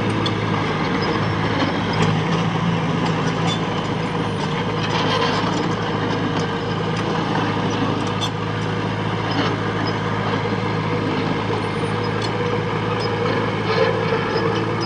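Heavy diesel machinery engine running steadily, with scattered short clicks and clanks.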